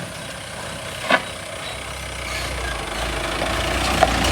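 Heavy vehicle engine rumbling and growing steadily louder as it approaches, with a short sharp clack about a second in and another near the end.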